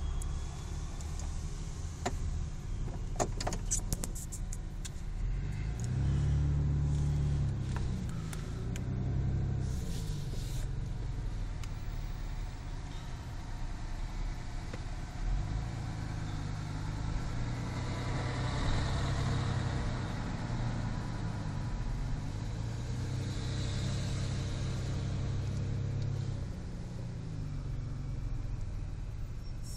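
Motor vehicle engines running, their low drone rising and falling in pitch several times, with a few sharp clicks about two to four seconds in.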